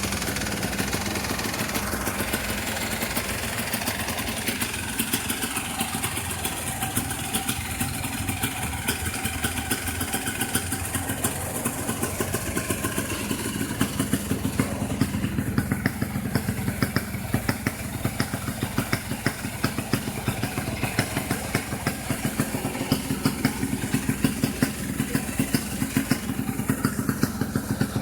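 Yamaha DT200 two-stroke single-cylinder engine in a motorcycle, running steadily at idle just after starting. Sharp uneven pops become more frequent from about halfway through.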